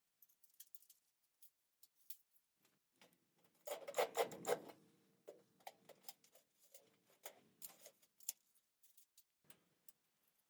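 Scattered light clicks and taps, with a quick run of four or five louder knocks about four seconds in.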